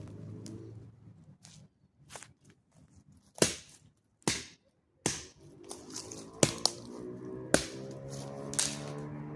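Campfire crackling, with a scatter of sharp, loud snaps and pops. Under it, a steady engine hum from passing motorcycles is heard at the start and again during the second half.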